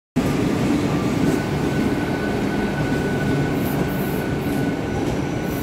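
Mumbai Western Railway suburban electric (EMU) local train running at a platform: a steady rumble of wheels on rails with a thin, high, steady whine. Brief high-pitched hissing sounds come twice near the end.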